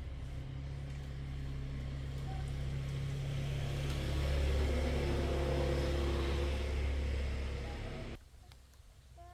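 A motor engine running steadily, growing louder toward the middle, then cutting off abruptly about eight seconds in.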